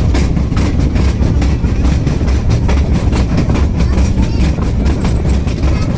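Small sightseeing train running on its track: a steady low rumble with frequent clattering of the wheels over the rails.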